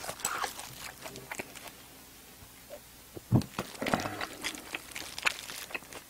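Close-miked wet chewing and lip smacking of someone eating, with many small sharp clicks and a louder knock about three seconds in.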